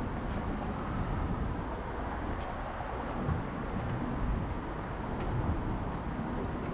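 Downtown city street traffic: a steady low rumble of passing vehicles with no distinct single event.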